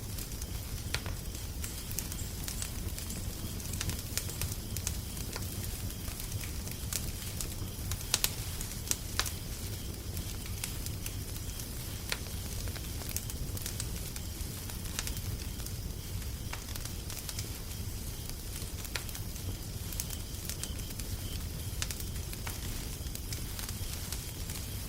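Wood fire crackling: irregular sharp pops and snaps over a steady low rumble, with a few louder pops about eight seconds in.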